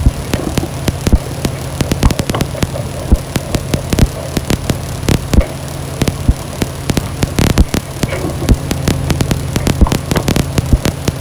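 Ambient noise music: a steady low droning hum, crackled through with dense, irregular clicks.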